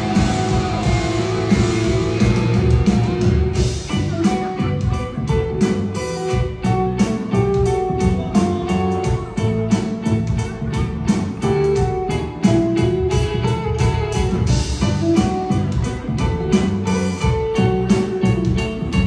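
Rock band playing live: a guitar melody over bass and steady drum hits, the intro of a song.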